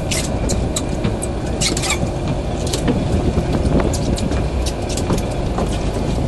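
A fishing boat's engine running steadily under wind and water noise, with scattered short sharp clicks.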